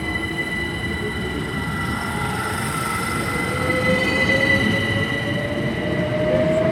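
Class 387 electric train whining, with a steady high tone throughout and a second whine that rises steadily in pitch from about three seconds in as the train grows louder.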